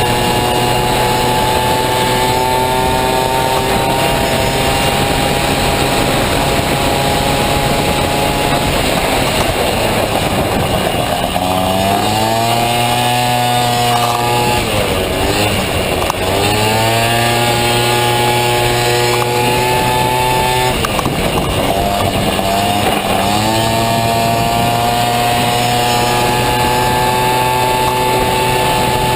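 A Honda Motocompo's small two-stroke Dio scooter engine racing at high revs. It holds a steady high note, and three times the pitch drops as it slows and then climbs back as it pulls away again.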